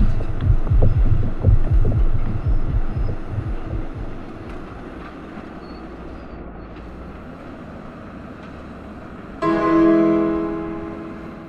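A fast run of deep, pulsing thumps that fades away over the first few seconds into a low steady hum. Near the end a single piano chord is struck and rings out, slowly dying away.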